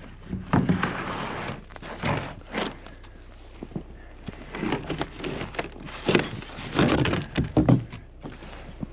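A series of irregular wooden knocks and thunks, some in quick clusters, as wooden pieces are handled and bumped together.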